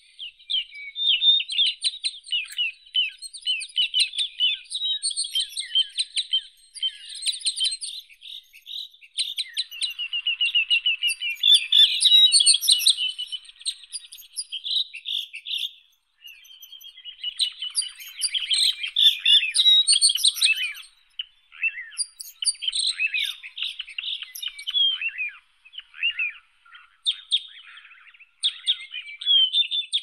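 Songbirds chirping and singing, a busy run of rapid high-pitched chirps and trills with a brief lull about halfway through.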